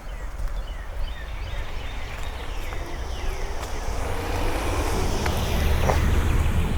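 A motor vehicle driving past on the street, growing louder toward the end, with small birds chirping.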